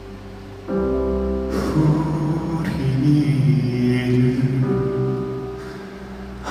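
Live male singing of a slow ballad over held accompaniment chords. The accompaniment swells about a second in, and the voice comes in shortly after.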